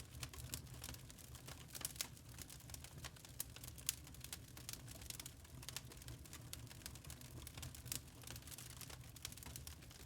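Log fire crackling in a fireplace: a dense, irregular run of small sharp pops and snaps over a low steady rumble, with one louder snap about four seconds in.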